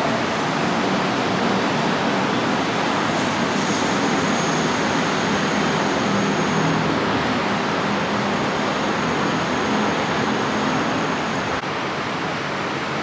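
BTS Skytrain electric train running through the elevated station: a thin high whine and hiss over a steady rushing noise, with road traffic beneath. The whine and hiss stop abruptly near the end.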